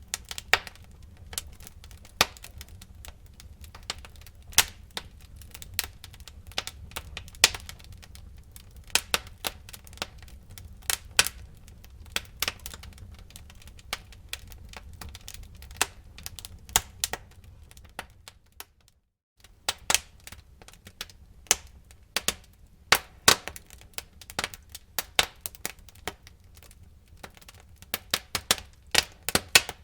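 Wood fire crackling in a fireplace: irregular sharp pops and snaps, some loud, over a low steady rumble of the flames. The sound cuts out for about half a second a little under two-thirds of the way through, then the crackling resumes.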